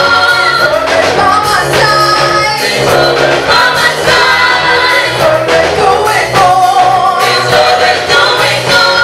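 Gospel song with voices singing together over accompaniment, loud and continuous.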